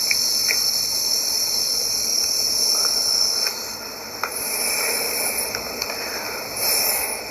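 A steady, high-pitched chorus of insects, which shifts and thins a little about halfway through, with a few light clicks.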